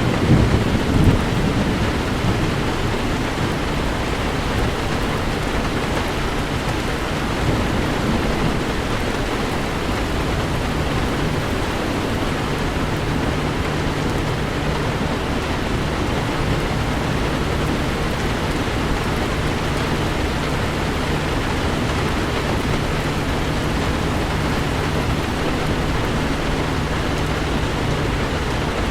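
Heavy rain falling steadily on a car, with a low rumble of thunder fading away in the first second or two. A faint steady low hum joins the rain about twelve seconds in.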